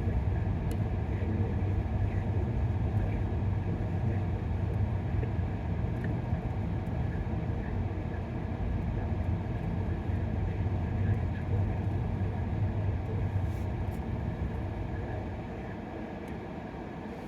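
Steady low rumble of a car driving, mostly road and engine noise, easing off somewhat near the end.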